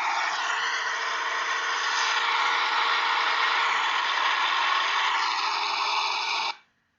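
Recorded sound of a military tank running, a loud, dense, steady noise that stops abruptly about six and a half seconds in.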